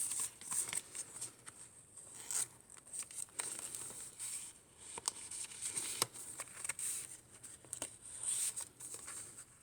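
Paper pages of a handmade junk journal rustling and crinkling as they are turned and handled, in irregular short rustles with small taps.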